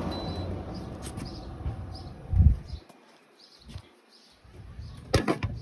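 A window air conditioner runs with a low hum that stops with a thump about two and a half seconds in. Faint high chirps repeat every few tenths of a second, and a couple of sharp knocks come near the end.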